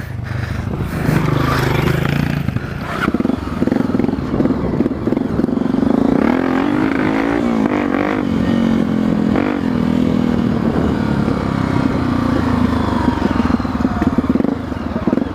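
Dirt-bike engine running under load on a trail climb, its revs rising and falling about halfway through.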